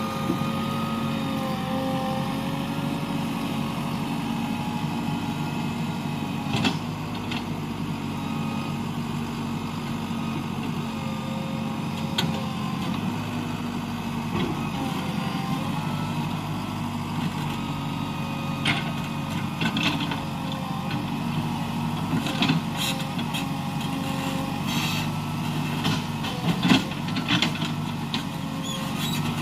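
An engine running steadily at idle, with scattered sharp clicks and knocks.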